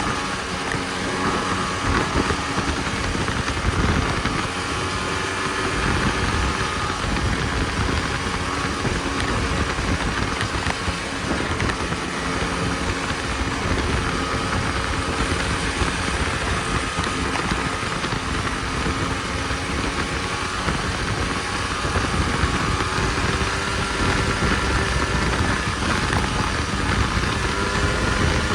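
Snowmobile engine running steadily while riding, its pitch drifting slightly up and down with the throttle, over a constant rushing noise.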